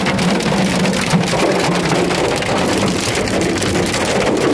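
Heavy rain mixed with hail pelting down: a dense patter of sharp individual hits over a steady low hum.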